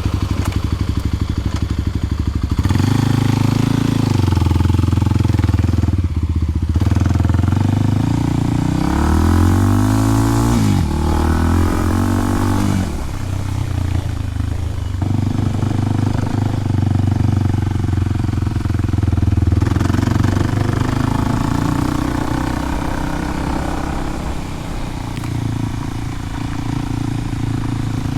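Kawasaki KLX300's single-cylinder four-stroke engine running through a Delkevic 10-inch oval slip-on exhaust. It pulses evenly at low revs at first, gets louder a couple of seconds in, then the revs rise and drop several times near the middle before settling to a steady run.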